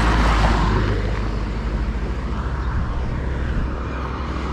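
A road vehicle passing close by, its rush loudest about a second in and then fading away, over a steady low rumble.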